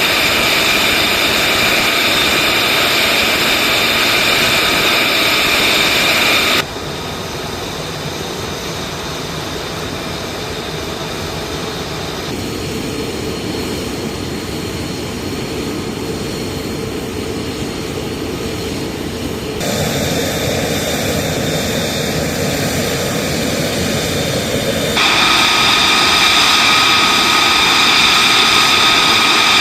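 Military jet engines running in a steady rush of noise, with a steady high whine in the first and last stretches. The sound changes abruptly four times, as if cut between different shots, dropping quieter about a quarter of the way in and coming back up near the end.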